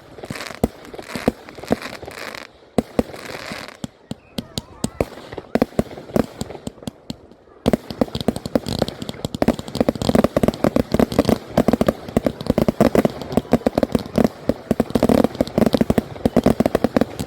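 Fireworks going off: scattered sharp bangs, then from about eight seconds in a dense, rapid crackling barrage that keeps up to the end.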